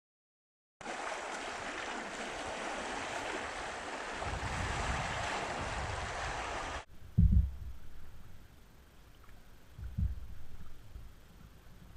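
Steady rush of water starting about a second in, then cut off abruptly. A quieter stretch follows, with a few low thumps of wind buffeting the microphone.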